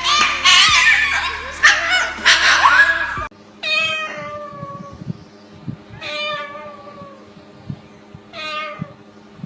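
Music with singing cuts off abruptly about a third of the way in. Then come three separate drawn-out meows, about two and a half seconds apart.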